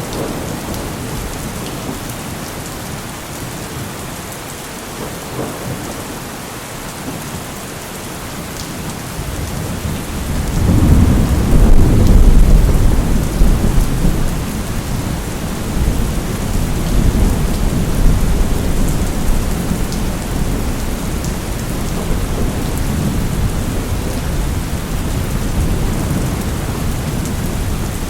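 Steady heavy rain with a long roll of thunder: a deep rumble swells about ten seconds in, peaks a couple of seconds later and rolls on, slowly fading, under the rain.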